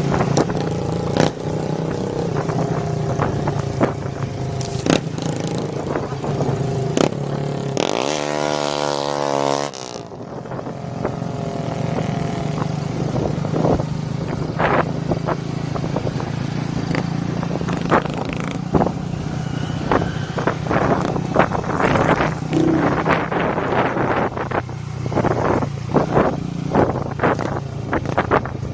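Motorcycles with straight-through exhaust pipes running on a ride, with many short knocks and clicks over the engine note. About eight seconds in, an engine revs hard, its pitch climbing steeply, then cuts off abruptly at about ten seconds.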